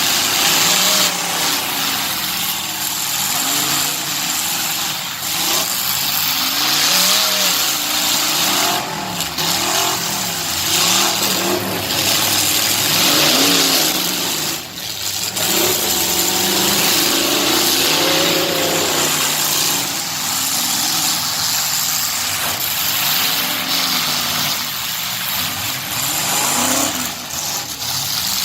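Truck engines revving up and down over and over, the pitch rising and falling in quick swells over a constant loud hiss, with a brief dip about fifteen seconds in.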